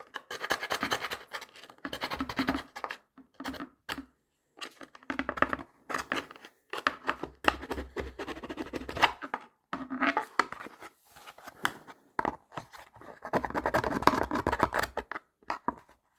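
A small hand file rasping against the cut edges of a leather case, smoothing a rough belt slot. It goes in short runs of back-and-forth strokes with brief pauses between them.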